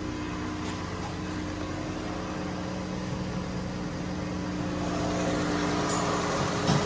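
2017 Dodge Caravan's 3.6-litre V6 engine running steadily at idle, getting a little louder about five seconds in.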